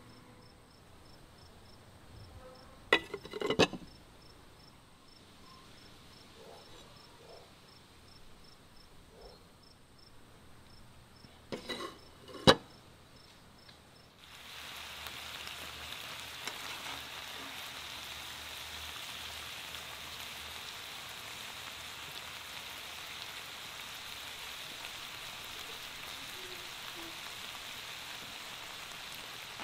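A heavy knife knocking on a wooden cutting board in two short bursts of chopping, then, about halfway through, a steady sizzle from chicken frying in beer sauce in a cast-iron skillet.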